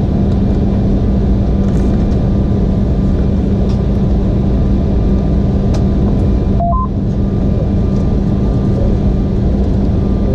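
Steady cabin drone inside an Embraer E175 airliner waiting to push back: a loud even rumble with a humming tone. About seven seconds in, two short rising tones sound briefly.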